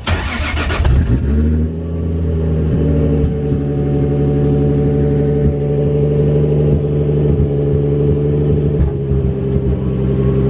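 Built Toyota 2JZ inline-six in a Nissan 240SX, restarted on a freshly added gallon of E85: a loud burst in the first second as it catches, then it settles into a steady idle.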